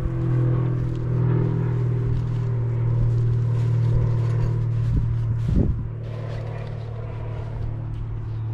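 A steady low hum, with a short louder swell about five and a half seconds in.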